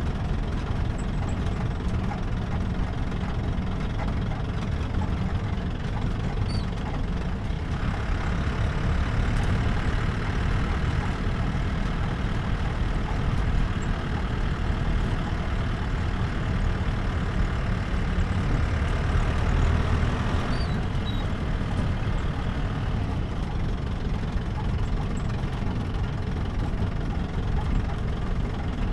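Jeep engine running steadily while driving, heard from on board with low road rumble. For about twelve seconds in the middle the engine note turns brighter, then drops back.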